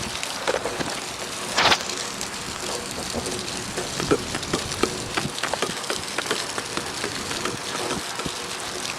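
Steady rain falling, a constant hiss with many separate drops ticking close to the microphone, and one louder hit about two seconds in.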